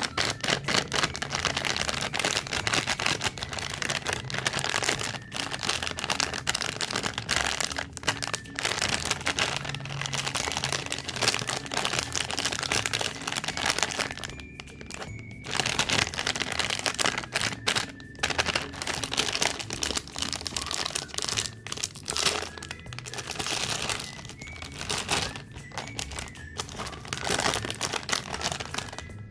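Packaging of snack cakes and cookies crinkling and crackling as it is handled and unwrapped, in dense, irregular bursts with a few brief pauses.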